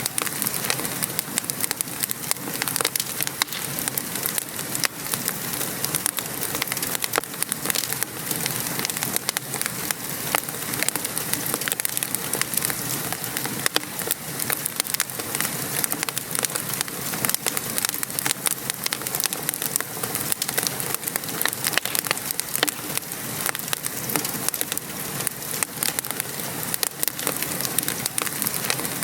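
Steady rain patter mixed with a wood fire crackling, with many small pops and snaps over the constant hiss.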